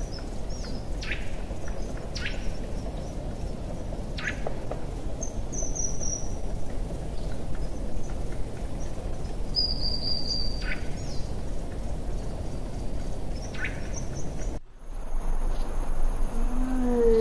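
Wild bird calls: short downward chirps every few seconds and a couple of high whistles, over a steady background hiss. The sound cuts off abruptly near the end, and a low animal call begins just before the end.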